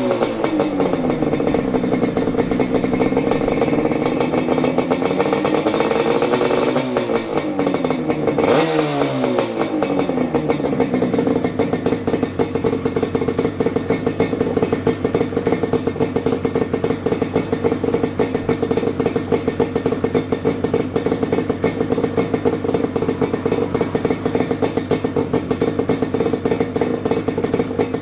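Yamaha RZ250's two-stroke parallel-twin engine running through a Sugaya collector expansion-chamber exhaust with the silencer fitted. It is revved up and let back down twice in the first ten seconds or so, then settles into a steady idle.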